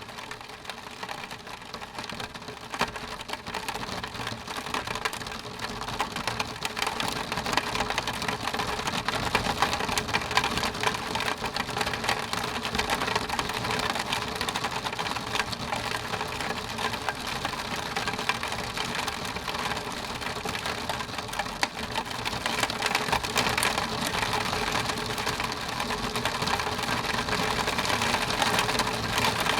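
Rain pattering on window glass, a dense fast patter of drops over a steady hiss of rainfall, growing gradually louder.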